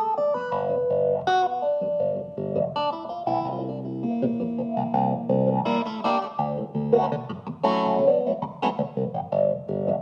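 Restored Hohner Clavinet D6 electric keyboard being played, percussive plucked-sounding chords and single notes with sharp attacks, starting right at the beginning after a short break.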